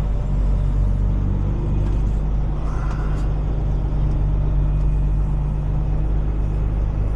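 Heavy tow truck's diesel engine running at a steady low rumble while the truck rolls along slowly.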